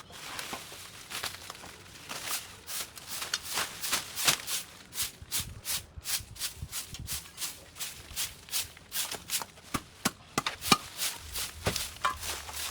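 Rapid, repeated crisp rustling strokes through dry vegetation, about three or four a second, uneven in strength.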